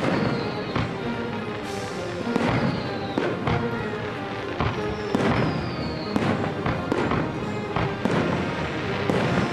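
Aerial firework shells bursting, a string of sharp bangs about once a second, over music playing throughout.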